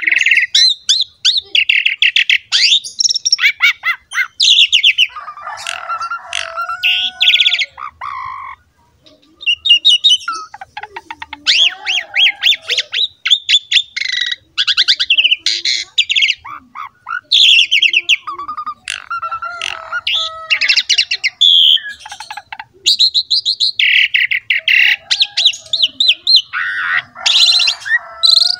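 Asian pied starling (jalak suren) singing a long, fast, varied song of rapid chattering trills, harsh squawks and short whistled notes, with one brief pause about eight seconds in.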